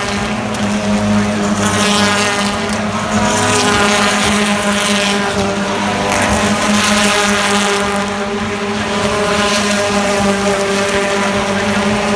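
BTCC touring-car engine noise from the race, a loud, steady drone that holds nearly the same pitch throughout.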